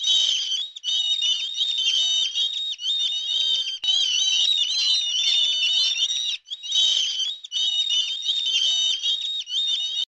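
A flock of seabirds calling, many shrill, high calls overlapping in a near-continuous din, with brief lulls about a second in, around four seconds in, and about six and a half seconds in.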